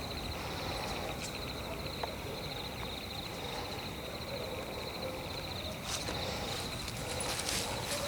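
Night forest ambience: insects trilling steadily in a fast, high-pitched pulse, with a few footsteps on dry leaves and twigs near the end.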